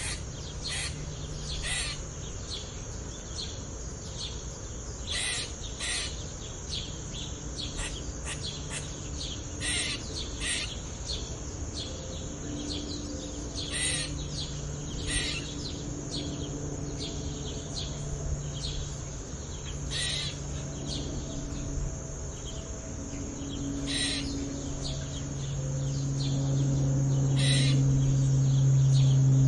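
Wild birds calling in woodland: short, sharp calls at irregular intervals, some loud and some faint. A steady low hum lies underneath and grows louder over the last few seconds.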